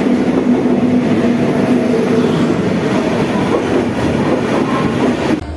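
Train running on the track: a loud, steady rumble of wheels on rails with a steady hum that fades about halfway through, cutting off suddenly near the end.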